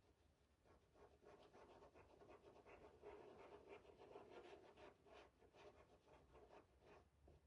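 Faint scratchy brushing: a paintbrush stroking paint onto a surface, about three or four strokes a second.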